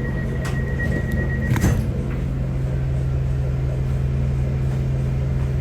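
Steady low drone of the train's engine heard inside the passenger carriage, with a short clatter about one and a half seconds in, where a thin high tone also stops.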